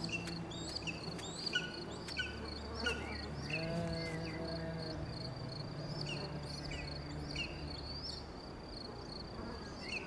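A steady high-pitched insect trill, with many short, quick chirps over it that flick up and down in pitch, and faint low held tones underneath for a few seconds in the middle.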